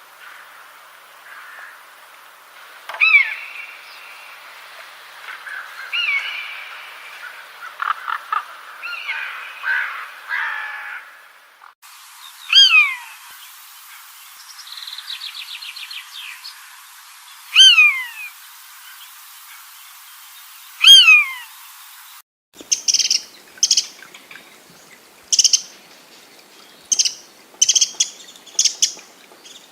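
Calls of several different birds in succession, with abrupt changes between recordings: first a mix of chattering calls, then a loud whistled call sliding downward, repeated every few seconds with a short fast rattling trill between, then short sharp high-pitched calls repeated about once a second.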